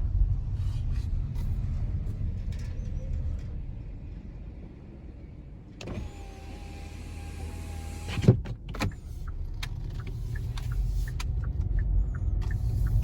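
Car cabin with a steady low road rumble; about six seconds in an electric power window motor runs with a steady whine for about two seconds, then stops with a couple of sharp knocks.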